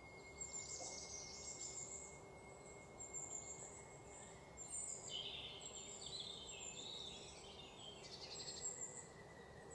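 Faint, irregular high chirps and trills of small birds over a steady background hiss.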